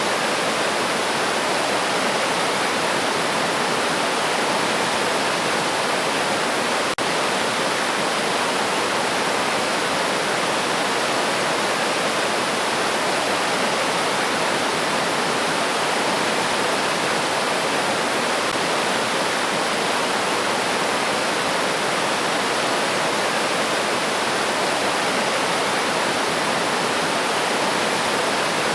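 A river stream flowing with a steady, even rush of water, broken by a momentary dropout about seven seconds in.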